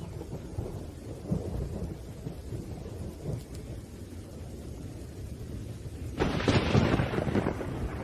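Thunder rumbling low under steady rain, with a louder, sharper crack of thunder about six seconds in that fades over a second or so.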